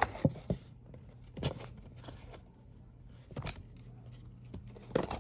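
A few scattered light clicks and rustles of fast-food paper packaging being handled, over a faint steady low hum.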